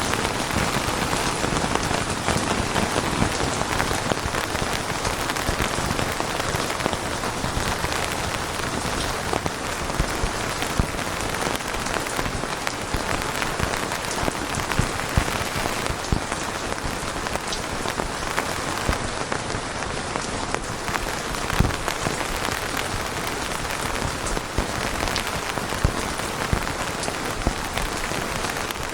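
Steady rain falling on a surface: an even hiss with many individual drops ticking through it.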